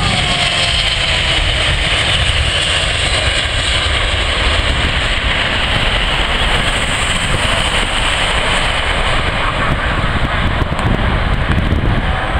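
Jet airliner engines running, a steady loud roar, with wind buffeting the microphone.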